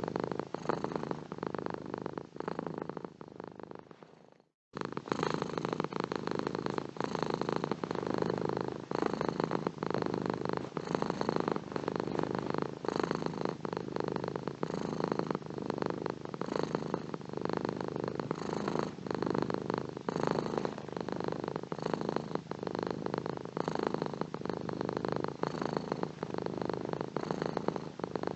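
Domestic cat purring steadily, close up, in a fast even rumble. About four seconds in the purr fades away to a moment of silence, then starts again suddenly at full strength.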